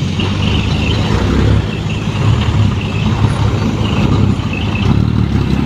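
Dump truck's diesel engine running steadily, a loud low rumble, with faint high chirps now and then.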